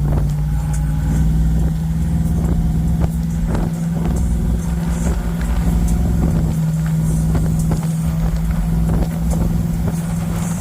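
Car engine running steadily at cruise through an exhaust with the pipes cut off, a loud, even drone that holds one pitch.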